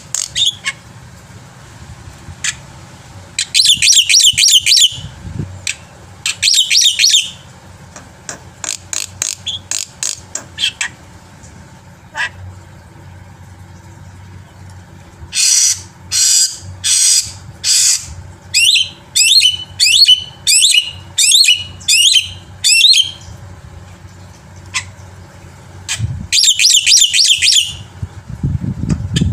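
Black-winged myna (jalak putih) singing in loud bursts of rapid, harsh chattering notes. The longest run comes about halfway through, and short quieter calls fall in the pauses. A steady low hum lies underneath.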